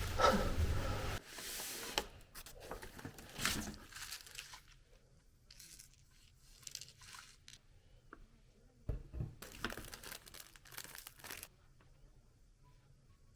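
Packaging being handled: short bursts of crinkling and tearing, as of plastic or paper wrappers, with a louder low rumble that stops about a second in.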